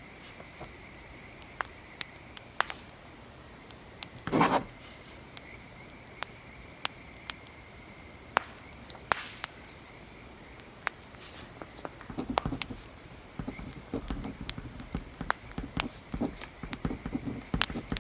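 Wood fire crackling with scattered sharp pops over a faint steady hiss. From about twelve seconds in, a quick, irregular run of pencil scratches and taps on paper joins it.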